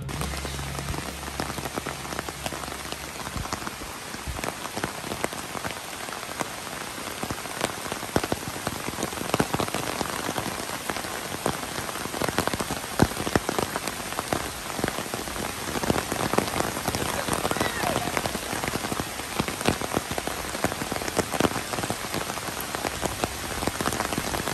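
Steady rain falling, with many separate drop hits standing out from the hiss, getting a little heavier after the first several seconds.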